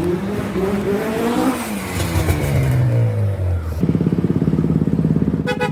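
A modified car's engine revving: its pitch climbs, then falls away over a few seconds. About two-thirds of the way in it settles into a steady, rapidly pulsing run.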